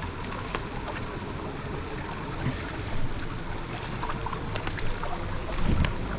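Small mountain stream running, a steady rush of water, with scattered light clicks and knocks.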